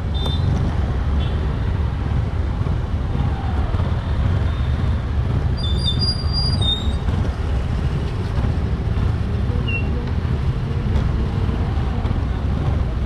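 Steady low rumble of a motorbike riding through road traffic, with a brief high squeal about six seconds in.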